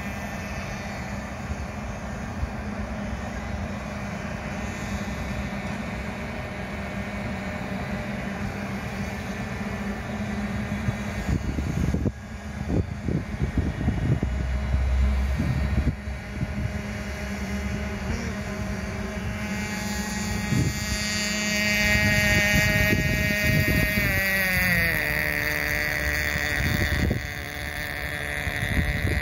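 Small nitro glow engine of a radio-controlled model boat running at a steady high pitch. Its pitch drops about three-quarters of the way through as the throttle comes off.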